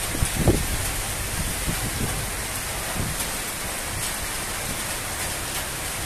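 Heavy rain pouring steadily, with a couple of low thumps about half a second in.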